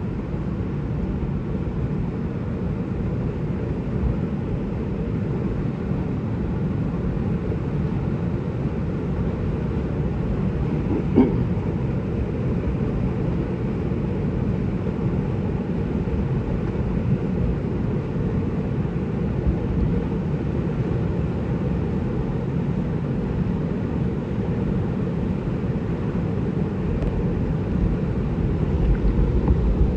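Creek rapids running: a steady, low rush of whitewater.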